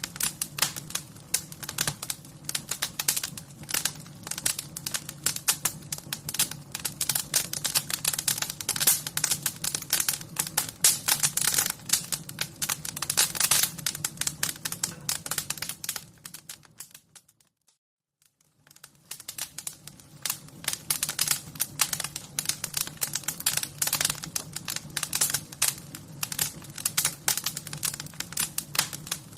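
Fire crackling: dense, rapid pops and snaps over a low, steady rumble. About 17 seconds in it fades out to near silence for a second or so, then fades back in.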